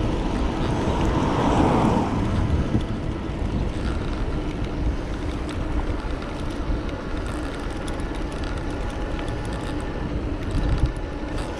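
Wind rumbling over the camera microphone of an electric bike riding along a road, with a louder rush that swells and fades in the first two seconds.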